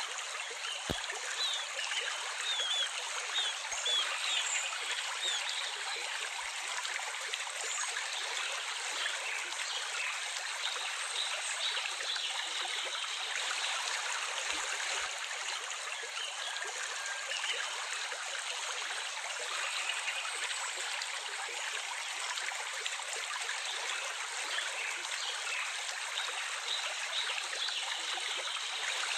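Stream of water flowing and trickling, a steady rush without breaks, with a few faint high chirps in the first several seconds.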